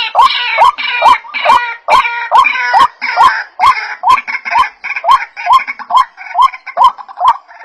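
White-breasted waterhens calling: a steady chant of rising croaking notes, a little over two a second, with overlapping chatter from other waterhens through the first half.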